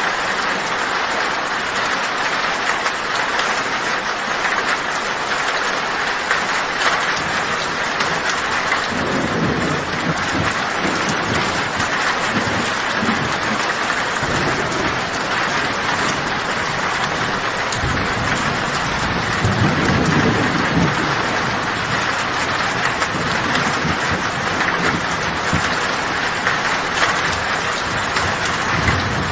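Heavy rain falling steadily on a tin roof, with thunder rumbling low twice: once about a third of the way in and again past the middle.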